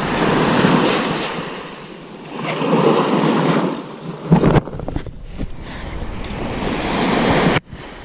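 Surf washing onto the beach, swelling twice in the first few seconds, with wind buffeting the microphone and a short knock about halfway through.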